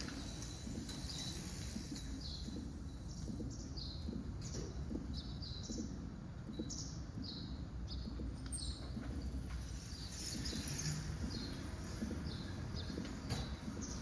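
A small bird giving short, high, falling chirps about once a second, over a steady low rumble of background noise.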